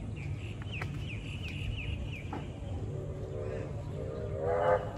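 Birds calling: a quick series of short falling chirps, then two longer, harsh calls near the end, the second the loudest, over a steady low rumble.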